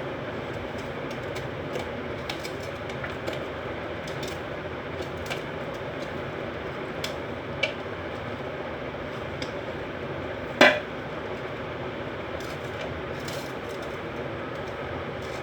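Soft slime being handled, giving scattered small clicks and pops and one louder sharp click about two-thirds of the way through, over a steady background hiss.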